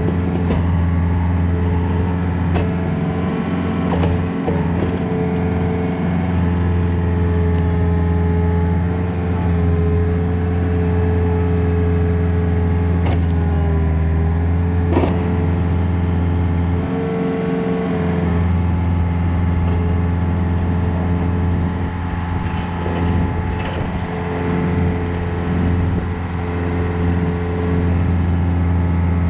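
Takeuchi TB153FR mini excavator's diesel engine running steadily while digging, with a whine that wavers in pitch as the hydraulics work and a few sharp knocks.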